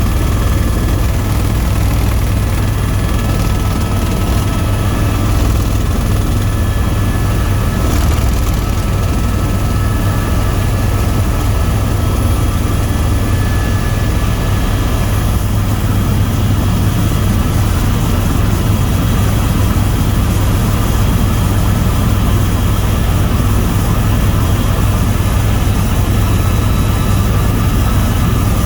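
Tour helicopter in flight: a steady, loud drone of rotor and turbine engine that stays even throughout, with a deep low end and faint steady whines above it.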